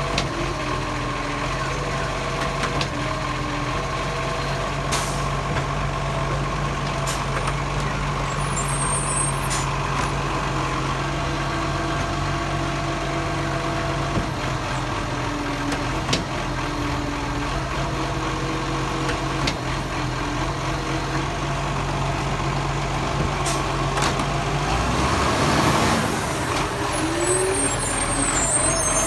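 Garbage truck running steadily with several steady whining tones and a few sharp knocks. Near the end its low engine note drops away and a burst of hissing noise comes in.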